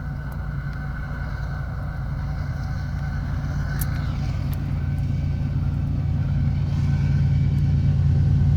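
Approaching train, a steady low locomotive engine hum growing steadily louder as it nears.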